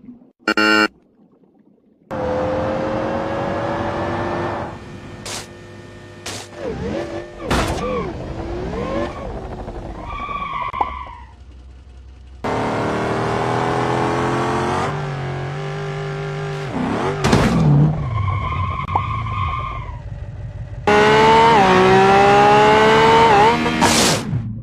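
Sports car engines revving, their pitch rising steadily, in several separate clips joined by abrupt cuts. Sharp crash impacts come in the middle and near three-quarters of the way through. A short, high, horn-like tone sounds twice.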